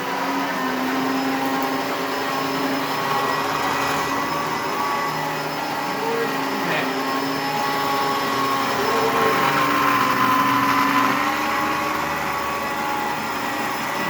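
Dyson bagless upright vacuum cleaner running on carpet: a steady motor whine whose pitch shifts slightly as it works.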